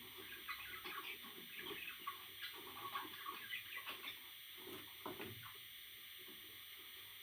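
A parrot chattering softly in quick short chirps and clucks, which die away about five seconds in.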